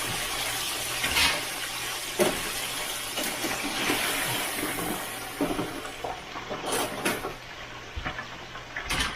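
Hot oil in a Butterball electric turkey fryer sizzling hard around a basket of just-fried chicken. The hiss dies away about halfway through into scattered clicks and knocks of the metal basket and fryer.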